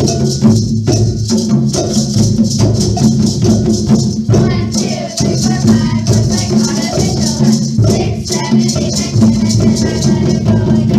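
Elementary-school percussion ensemble playing: a fast, steady rhythm of struck instruments and shakers over sustained low pitched notes.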